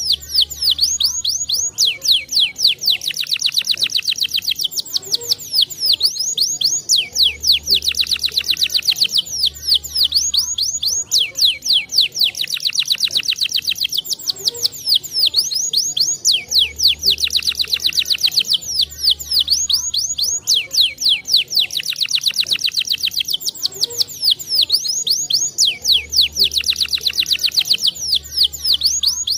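Domestic canary singing continuously: fast rolling trills of rapidly repeated sweeping notes in repeating phrases. A low hum comes and goes underneath.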